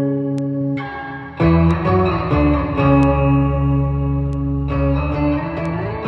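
Instrumental progressive rock on electric guitar through effects, sustained chords ringing with a chord change about a second and a half in, where a low bass note comes in and holds.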